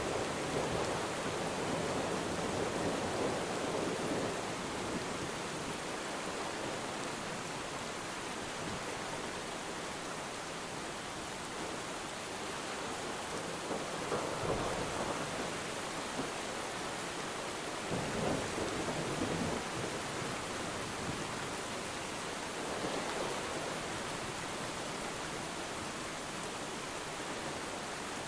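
Steady rainfall hissing, with ocean waves washing onto the shore in swells several times.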